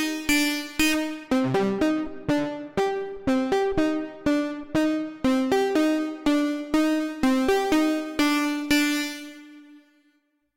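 Waldorf Pulse 2 monophonic analog synthesizer playing a plucky preset: a repeating pattern of short, quickly decaying notes, about three a second. The last note rings out and fades away near the end.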